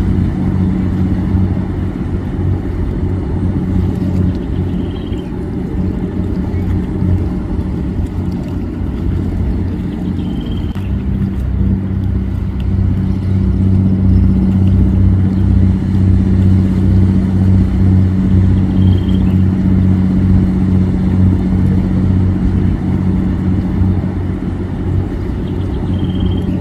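Motorboat engine running steadily at a constant speed, a deep even hum, with a faint short high chirp every few seconds.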